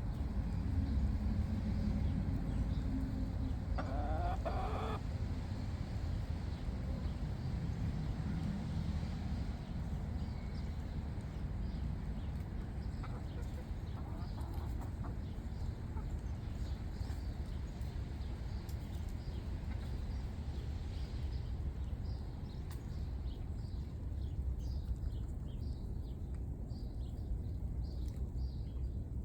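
Chickens clucking over a steady low rumble, with one louder, longer call about four seconds in and scattered short calls toward the end.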